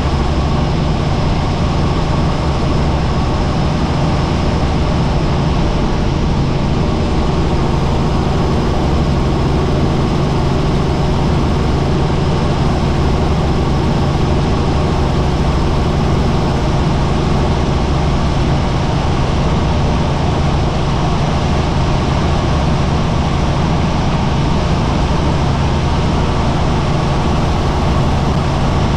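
Helicopter in flight: the engine and rotor make a loud, steady drone with a low hum and a constant rush of noise over it, unchanging throughout.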